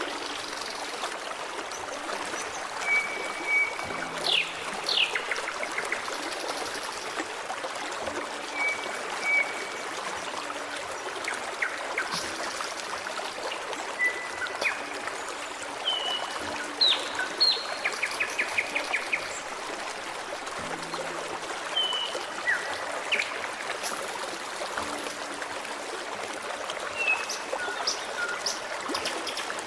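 Forest stream running steadily, with songbirds calling over it: short whistled notes, quick downward-sweeping calls and a few brief rapid trills, scattered throughout.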